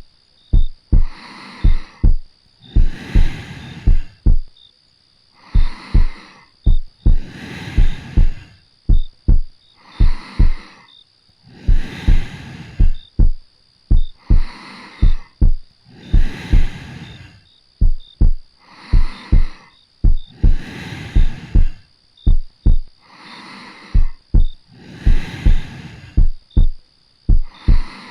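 A close-miked heartbeat thumping in steady paired beats (lub-dub), with slow soft breathing swelling in and out every couple of seconds.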